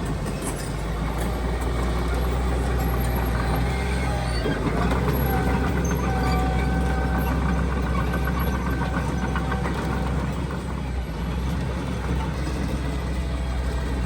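Diesel engine of heavy earthmoving machinery running steadily with a deep drone, with a thin higher whine for several seconds in the middle.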